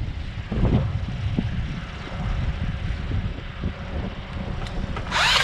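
Strong wind buffeting the microphone, a low gusting rumble. About five seconds in a loud, sharp noise breaks in.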